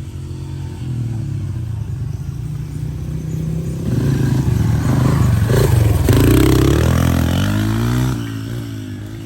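Dirt bike engine running and revving up: it builds about four seconds in and is loudest around six to seven seconds, with the revs rising and falling, then eases off near the end.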